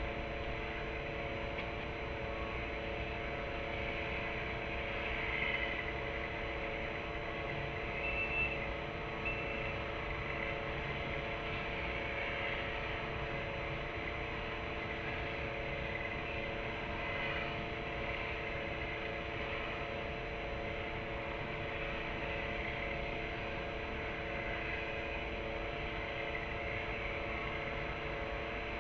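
Steady machine hum made of several fixed low tones, over a constant haze of distant traffic-like noise. Two short, high chirps come about 8 and 9 seconds in.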